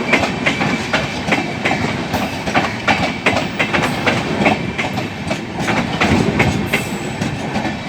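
Express passenger train rolling past, its wheels clacking over rail joints in a quick, uneven run of clicks over a steady rolling noise.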